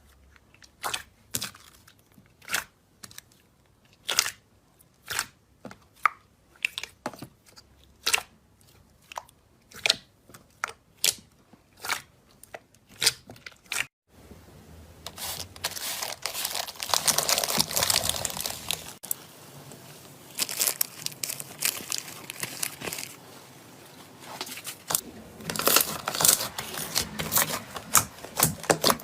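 Slime being worked by hand for ASMR: sharp sticky pops about twice a second, then, after a sudden change about halfway through, a dense crunchy crackling that eases off and turns back into quick pops near the end.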